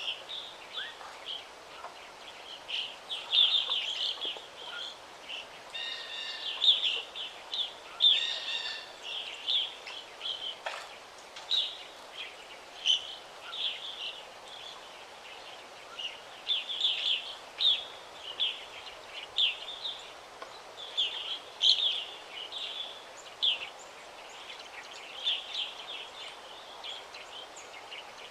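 Songbirds singing: a busy chorus of short, high chirps and trills from several birds, overlapping and repeating, over a faint steady background hiss.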